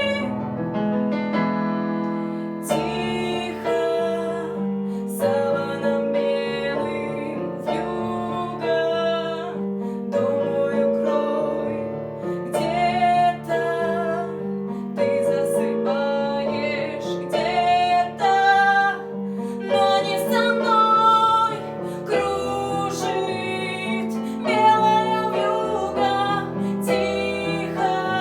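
A song with piano accompaniment and a woman singing.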